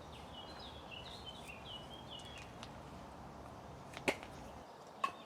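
A small bird chirping in a quick run of short high notes over a steady faint hiss, then two sharp clicks about a second apart near the end, the loudest sounds.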